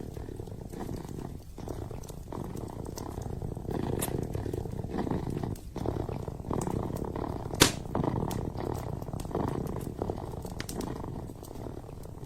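A kitten purring steadily, with the crackle and scattered small pops of a wood fire in a fireplace; one sharp, louder pop a little past halfway.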